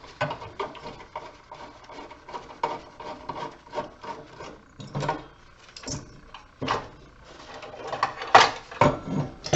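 Objects being handled on a work surface: scattered knocks and clicks with scraping and rubbing between them, and a few louder knocks near the end.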